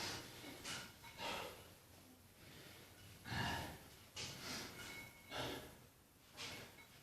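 A man breathing hard during a weight-training set, with about six faint, separate breaths roughly a second apart.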